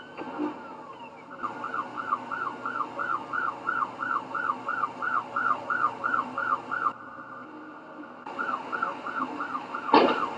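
Emergency vehicle siren on a fast yelp, sweeping up and down about three times a second, breaking off for about a second and then resuming. A sharp loud bang, the loudest moment, comes near the end.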